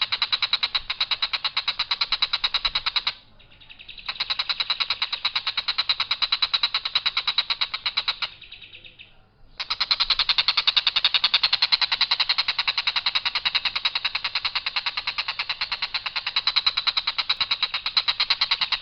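Tengkek buto kingfisher giving its long, harsh rattling call: rapid notes several a second, run on in three long strings broken by two short pauses of about a second.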